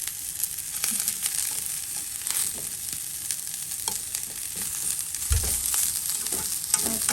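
Broccoli frying in hot olive oil in a pan, with a steady sizzle and scattered clicks of stirring. There is a low thump a little after five seconds in.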